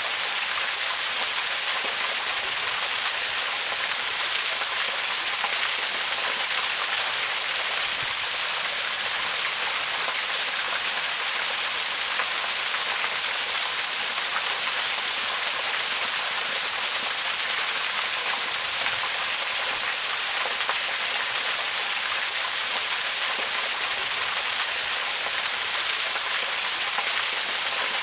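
Waterfall: a steady, even rush of falling water that is mostly high hiss with little low rumble.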